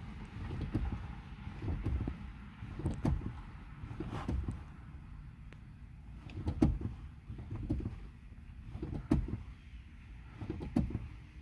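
2015 Toyota Camry's brake pedal pumped repeatedly with the engine off: a series of irregular low thumps and clicks from the pedal and linkage. This is done after a brake job, to push the caliper pistons back out against the new pads until the pedal goes firm.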